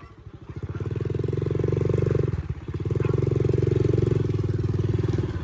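Dirt bike engine running under throttle, building up over the first second, easing off briefly about two and a half seconds in, then pulling steadily again.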